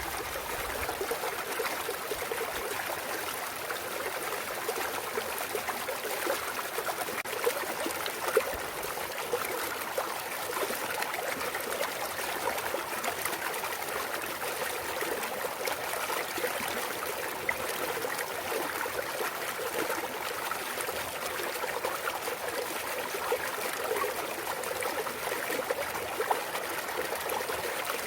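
Clear mountain stream trickling and babbling over rocks, a steady rush of water with many small splashes and gurgles throughout.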